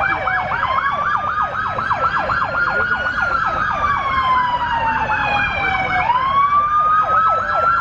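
Ambulance sirens sounding together: a fast yelp sweeping up and down about three or four times a second over a slow wail that falls for several seconds and jumps back up about six seconds in.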